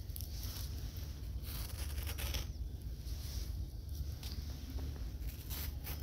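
Hand rustling and scraping in loose sand while pressing small plastic plants into it, in short irregular rustles over a steady low rumble.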